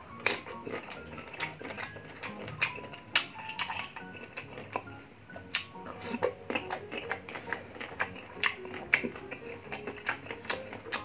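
Close-up chewing of crisp raw green mango: many sharp, crunchy bites and crunches at an irregular pace, over soft background music.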